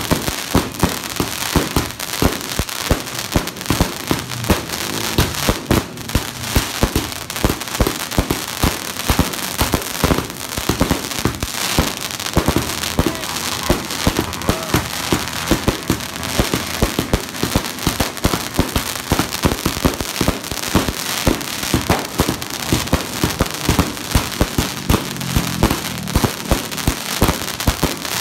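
A 100-shot crackling-flower fireworks cake firing non-stop: loud pops of shots and bursts, roughly two a second, over a dense, continuous crackle from the crackling stars.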